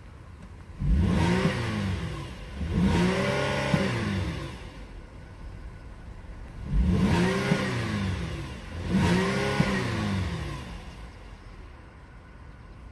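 2011 Buick Enclave's 3.6-litre V6 idling and free-revved in Park four times, in two pairs, each rev rising and then falling back to idle, heard from inside the cabin.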